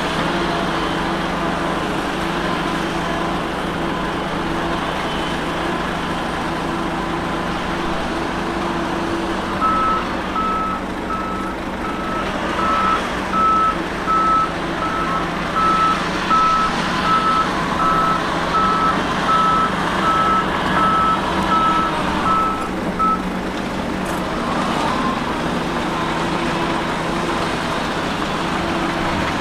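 Heavy earth-moving machinery with its diesel engine running steadily. About a third of the way in, a reversing alarm starts beeping about once a second, a single high tone, and it stops some 13 seconds later.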